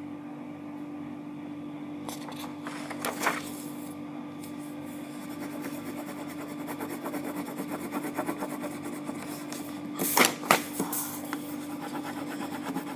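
Pen or pencil strokes scratching on paper, quick back-and-forth drawing and colouring in, with a few louder scratches about 2.5 s and 10 s in, over a steady low hum.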